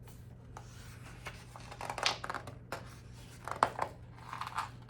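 Paper rustling with a few light clicks and scrapes, like a book's page being handled and turned, over a low steady hum.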